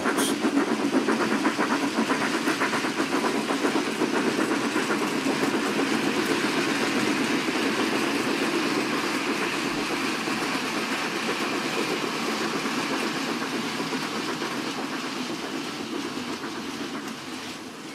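Model Battle of Britain class steam locomotive running with a goods train: sound-fitted chuffing at a quick, even beat over the rumble of the wheels on the track, fading gradually as the train runs away.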